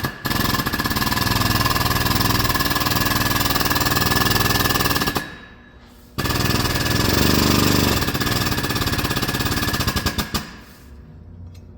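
Pneumatic air tool, such as an impact wrench or air hammer, hammering rapidly in two long runs of about five and four seconds, with a brief pause between them.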